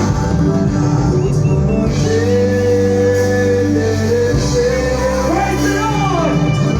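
Live amplified band music at a sound check, with a voice singing long, sliding notes over sustained bass notes that shift twice.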